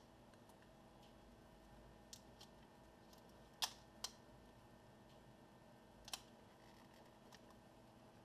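A few sharp small clicks and taps of plastic laptop parts being handled during disassembly: two faint ones about 2 s in, a louder pair around 3.6 and 4 s, and one more near 6 s, over near silence.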